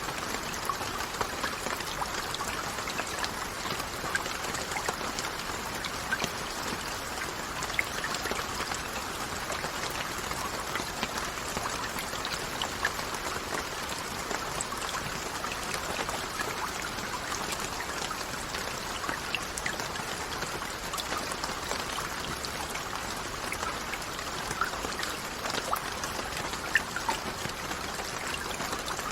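Steady rain falling, with many separate drops heard as small ticks over an even hiss.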